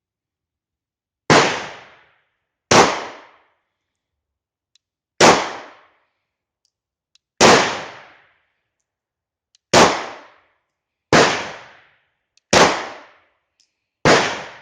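Eight shots from a German P.08 Luger 9mm pistol fired one at a time, a magazine emptied at an uneven pace of roughly one shot every one and a half to two and a half seconds, each a sharp crack with a short ringing tail.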